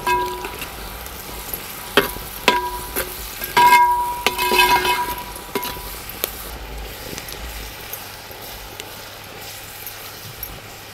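Chopped onions and green chillies sizzling in hot oil in a large metal pot while a metal spoon stirs them. The spoon knocks against the pot about four times in the first few seconds, each knock leaving the pot briefly ringing.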